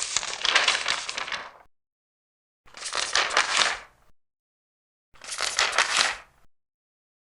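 Large paper pages being turned, three times, each a crinkling rustle of about a second and a half.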